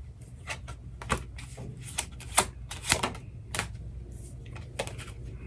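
Tarot cards being shuffled and handled, with irregular sharp flicks and clicks of the cards, about two or three a second.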